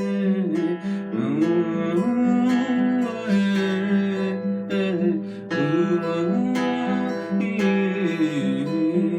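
Live music played on a plucked string instrument, with a flowing melody line over held low notes.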